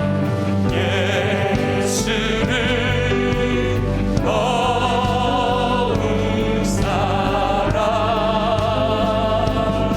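Live church praise band playing a worship song, with keyboards, bass, guitar and drums under singers holding long notes with vibrato.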